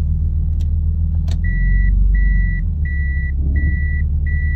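Toyota Supra's three-litre twin-turbo straight-six running with a steady low rumble that swells briefly about two seconds in. A high electronic beep starts about one and a half seconds in and repeats evenly, a little more than once a second, with a few sharp clicks before it.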